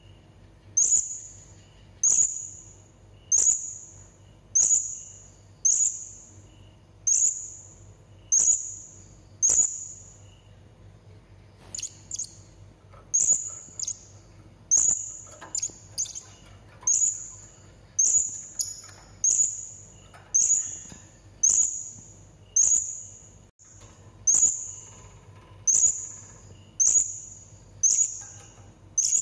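Serindit (hanging parrot) giving short, shrill, high-pitched calls over and over, about one a second. The calls pause briefly around the middle, then resume, some of them doubled. This is the call that is played to lure serindit and set them calling back.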